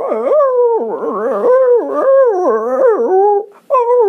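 A man imitating a puppy with his voice: a continuous run of whining, yelping cries that swoop up and down in pitch, broken briefly about three and a half seconds in. It is his take on a puppy's cries when it is hurt or being petted.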